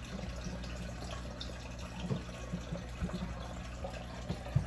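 Water trickling and splashing in a home aquarium, typical of the filter's outflow, over a steady low hum. A short knock comes near the end.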